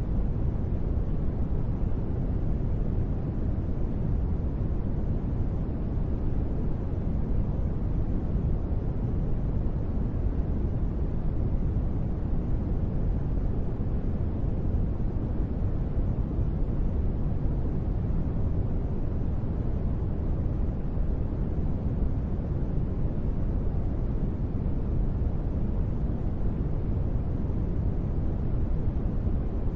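Steady, unbroken white-noise rain ambience with its weight in the deep low end and little high hiss; no separate drops or thunder stand out.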